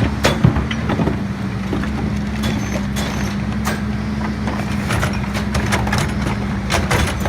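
Garbage truck engine running steadily, with scattered sharp knocks and clanks.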